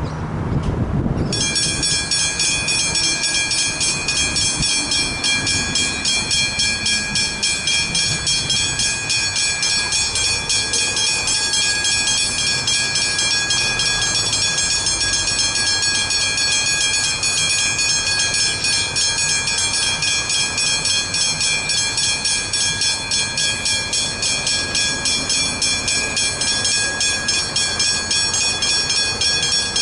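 Railway level crossing warning bells start about a second in and keep ringing with a fast, even, high-pitched strike, signalling that a train is approaching the crossing.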